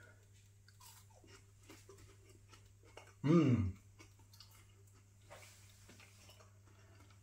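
Close-up chewing of a crispy battered chip, faint and soft, with one short appreciative 'mmm' falling in pitch about three seconds in.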